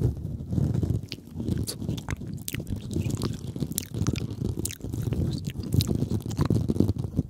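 Close-miked ASMR trigger sounds: a dense, steady low rustle with scattered sharp, wet-sounding clicks and crackles at irregular intervals.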